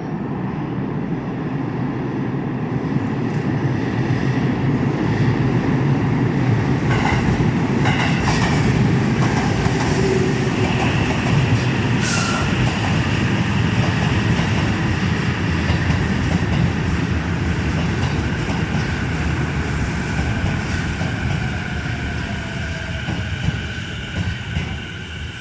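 Electric train running along the platform: a continuous rumble with wheels clattering over rail joints, swelling to its loudest about nine seconds in and then slowly easing off. From about eleven seconds in, a couple of steady high-pitched tones from the train hold above the rumble.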